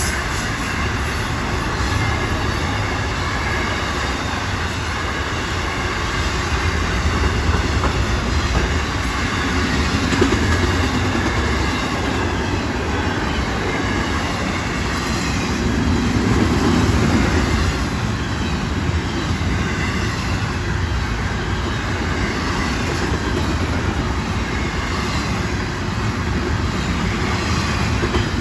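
Florida East Coast freight train rolling past at speed: a steady rumble of the cars with wheels clacking over the rail joints, swelling slightly a couple of times.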